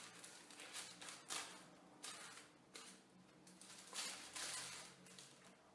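A few short, faint rustles of tissue paper being handled and pressed into place.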